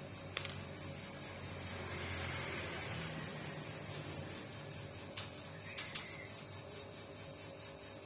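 A steady low mechanical hum, with a few light clicks of small parts being handled.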